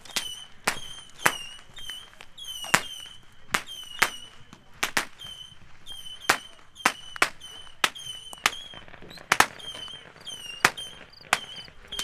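Consumer fireworks firing in rapid succession, about two to three sharp reports a second, each followed by a brief high-pitched tone.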